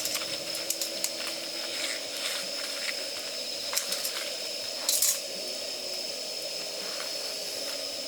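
Damp firewood burning in a campfire, with scattered sharp crackles and pops over a steady hiss, the loudest pop about five seconds in.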